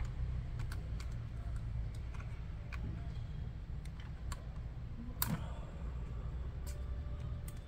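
Scattered light plastic clicks and taps from handling and prying at a laptop's parts during disassembly, with one sharper click about five seconds in, over a steady low hum.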